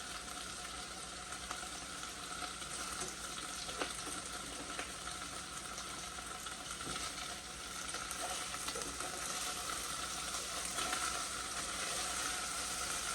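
Chicken frying in oil in a pot, a steady sizzle with a few faint clicks.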